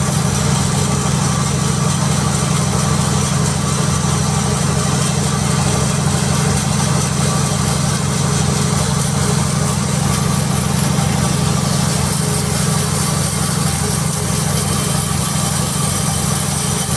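Sawmill engine running at a constant speed: a steady low hum with an even hiss above it.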